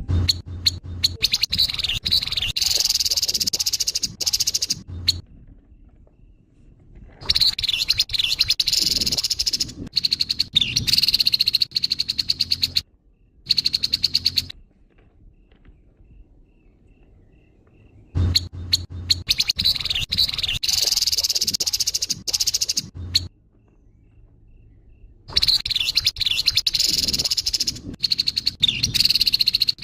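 Grey-headed babbler's harsh call: bursts of fast, rattling chatter several seconds long, repeated with short pauses between them.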